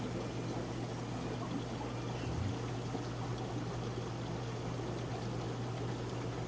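Aquarium water trickling and pouring steadily from tank filters, over a constant low hum from the tank pumps.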